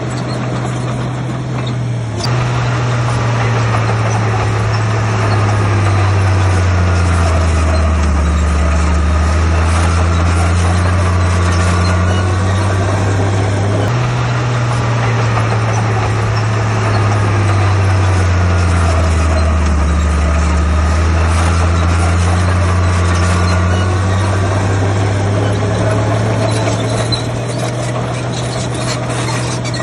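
Heavy diesel engine of an earthmoving machine running hard, its note sinking as it lugs under load and then recovering, twice over about 12 s each time. A faint high squeal wavers above it.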